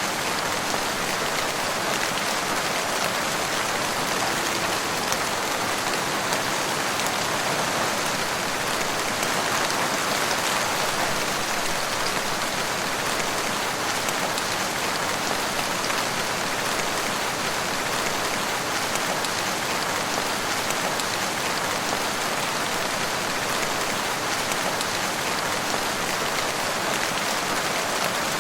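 Steady rain falling: a dense, even patter of drops that holds at the same strength throughout.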